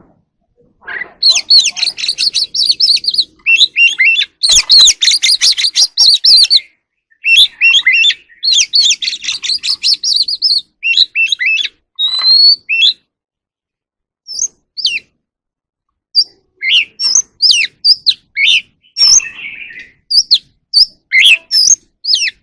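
Oriental magpie-robin singing: fast runs of high chirps and trills for about the first ten seconds, then separate, sharper whistled notes with short pauses between them.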